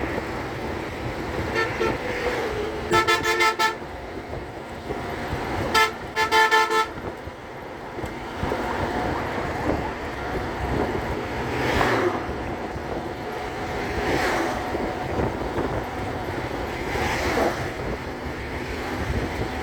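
Vehicle horns honking over steady traffic and wind noise: a faint honk, then two loud stuttering honks in the first seven seconds, with vehicles rushing past later.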